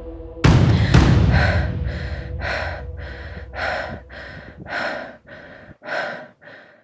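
A person panting hard, about two quick breaths a second, the breaths growing fainter toward the end. A low rumble runs underneath and cuts off suddenly near the end.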